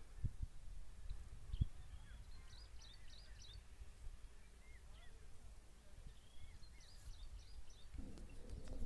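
Small birds chirping in short clusters of quick, hooked high notes, over a low rumble with a sharp thump about a second and a half in. Near the end the low rumble grows louder.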